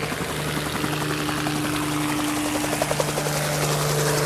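Helicopter sound effect: rotor blades chopping rapidly over a steady engine whine.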